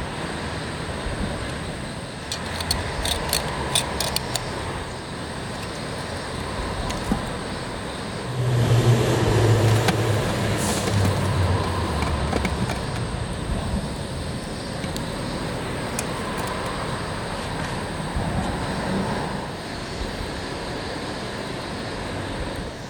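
Steady outdoor background noise, with a passing vehicle swelling louder for a few seconds near the middle and a few sharp clicks early on.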